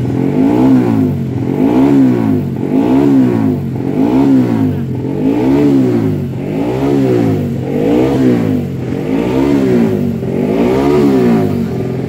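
Race motorcycle engine revved over and over, about once every second and a half, the pitch climbing and dropping back each time.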